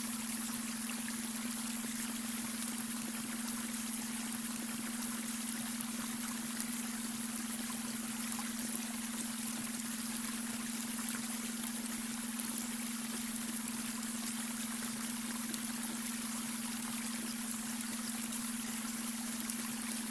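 Babbling brook running steadily, with a constant low hum tone underneath: the beta-wave brainwave tone mixed into the water sound.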